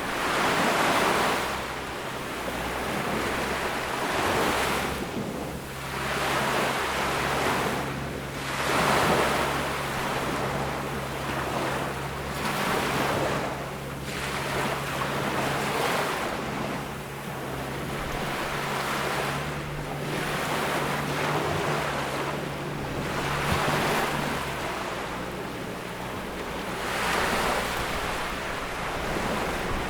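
Small ocean waves breaking and washing up a beach, one swell about every four seconds. A faint, steady low hum runs underneath for much of the time.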